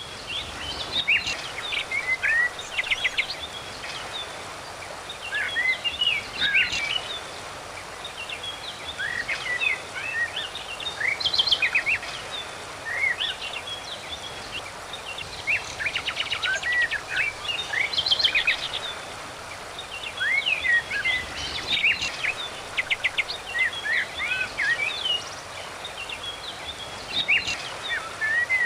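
Several birds calling at once in clusters of quick chirps, short whistled glides and brief rapid trills, over a steady background hiss.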